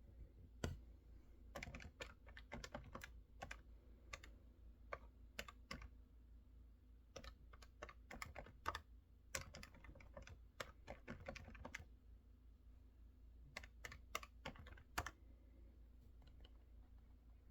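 Mechanical keyboard typing, heard quietly: runs of quick key clicks broken by short pauses, thinning to a few scattered keystrokes near the end.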